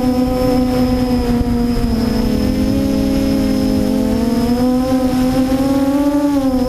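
QAV400 quadcopter's motors and propellers whining in flight, several close tones moving together, pitch dipping about two seconds in, climbing from about four to six seconds and falling near the end as the throttle changes. A low rumble runs underneath.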